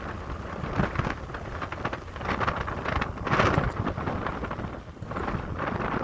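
Gusty wind buffeting the microphone: a low, rumbling noise that swells and eases with each gust.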